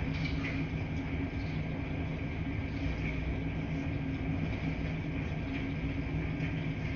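Laundry machines running in a laundry room: a steady low hum and rumble with a faint high whine over it and a few light ticks.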